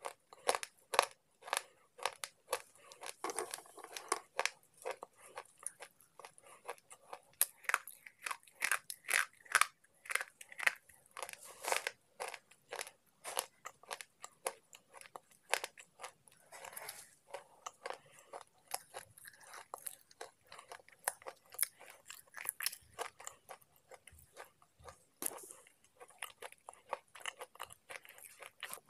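Slate pencil pieces being crunched and chewed in the mouth: a dense, irregular run of sharp, brittle crunches, several a second.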